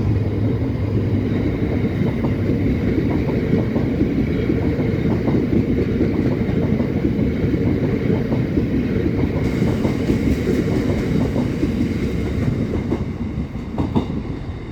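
A Class 70 diesel-hauled train passing slowly and close by: a loud rumble with steady clatter of wheels over the rail joints, the locomotive's engine note fading in the first second, and the sound dying away near the end.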